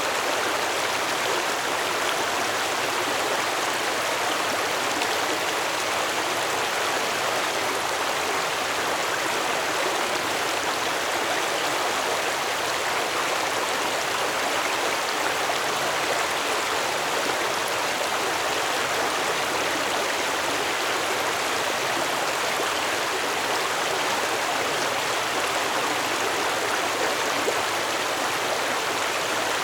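Stream water flowing, a steady rushing and babbling that holds an even level throughout.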